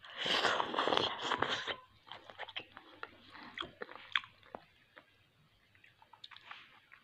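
A person biting and chewing cooked leafy greens close to the microphone. The chewing is loud for about the first two seconds, then turns into quieter, scattered chewing clicks and smacks that die away after about four and a half seconds.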